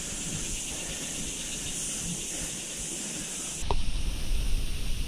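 A steady high outdoor hiss. A little past halfway it gives way to a louder, gusty low rumble of wind buffeting the microphone as the rider moves on.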